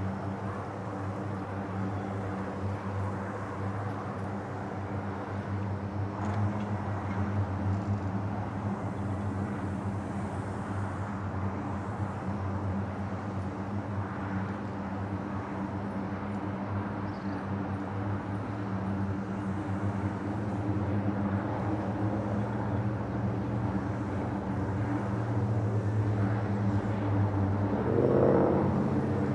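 Four turboprop engines of a Lockheed C-130-family military aircraft droning steadily, slowly growing louder as it approaches. Near the end they get briefly louder and shift upward in pitch.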